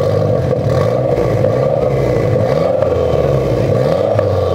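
Two car engines idling side by side. One engine's revs rise and fall again and again over the steady idle.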